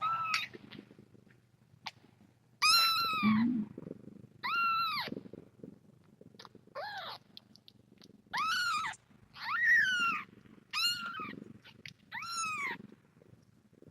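A young kitten meowing again and again: about seven short, high cries, each rising then falling in pitch.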